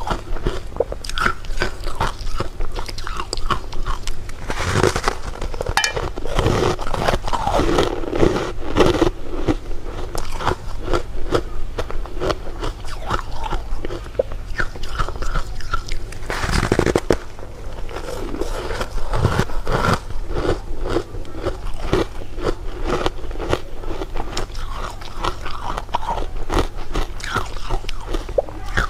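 Close-miked biting and chewing of candy, with dense crunching and crackling. Louder bites come about five seconds in and again just past the middle.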